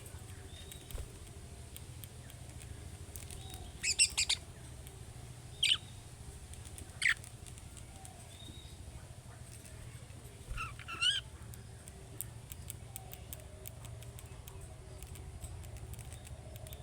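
Budgerigar calling: a handful of short, high chirps a second or more apart, some in quick pairs, over a steady low hum.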